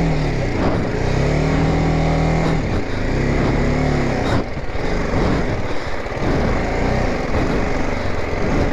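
BMW G 310 GS motorcycle's single-cylinder engine pulling on an off-road track, its pitch rising and falling several times as the throttle is opened and eased.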